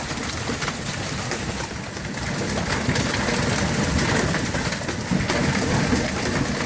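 Marble-sized hailstones pelting down in a dense, continuous rattle of countless small impacts, growing a little heavier about two seconds in.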